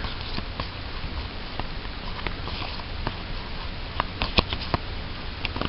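Pokémon trading cards being handled and sorted by hand: soft scattered taps and clicks over a steady hiss, with one sharper click a little past four seconds in.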